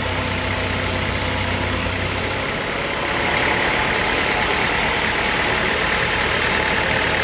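Sawmill machinery running steadily and loudly. About two and a half seconds in, the low hum drops away, and a higher hissing whine comes up and holds.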